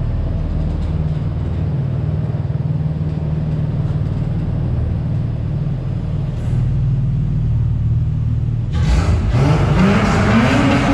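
Straight-piped Nissan Patrol Y61 4800 VTC's 4.8-litre straight-six running steadily at low revs. About nine seconds in, the throttle opens and the exhaust note climbs sharply and gets louder as it accelerates hard.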